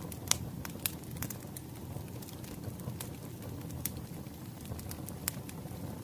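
Wood fire crackling: a steady low rumble with irregular sharp pops and snaps, the loudest about a third of a second in.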